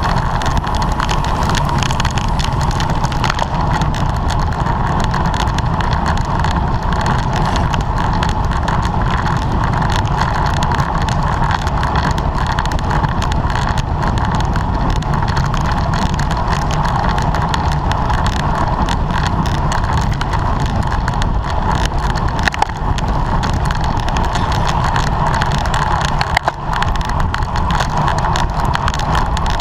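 Steady rush of wind and road noise from a road bike ridden at race speed, heard on a bike- or rider-mounted camera, with a constant hum running through it and two brief dips in loudness in the last few seconds.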